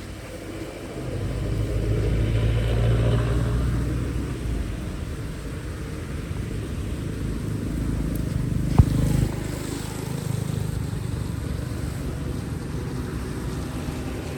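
A motor vehicle's engine rumbling past on the road, swelling and fading, then a second rise later on. A single sharp knock comes about nine seconds in.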